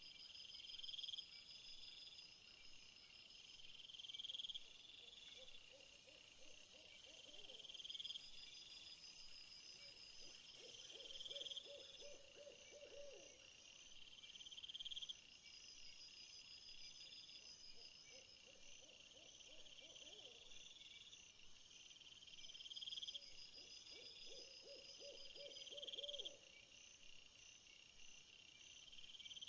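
Faint outdoor nature ambience: high, insect-like trills repeating every couple of seconds, with a low call sounding four times, roughly every six seconds.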